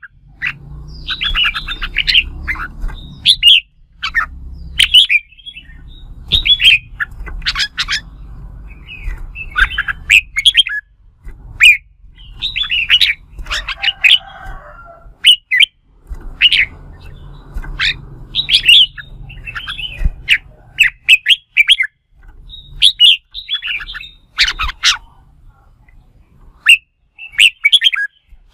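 Red-whiskered bulbul singing its competitive challenge song: short, loud phrases of sharp, rapidly warbling whistled notes, one every second or two, with brief pauses between.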